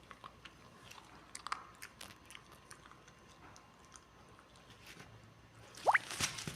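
Golden retriever puppy chewing and licking, with scattered small wet clicks and smacks. Near the end comes a short rising squeak with a rustle.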